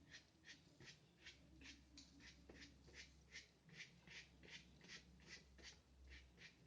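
A nearly dry paintbrush with black gouache scratching across paper in short, quick fur strokes, a faint, even rhythm of about three strokes a second.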